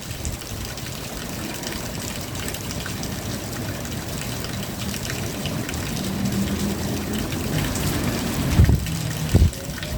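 Steady rain falling, with scattered drops ticking on a surface. Near the end two short low rumbles stand out as the loudest sounds.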